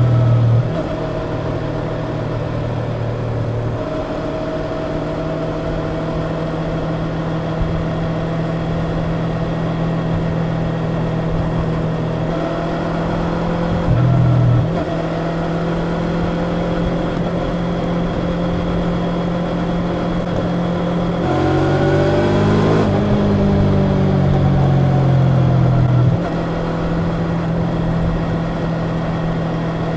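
Yamaha YZF-R25's 249 cc parallel-twin engine through its stock exhaust while riding, running at a steady pitch for long stretches. A little past two-thirds through, the engine note rises in steps as it accelerates and is louder for a few seconds before settling back.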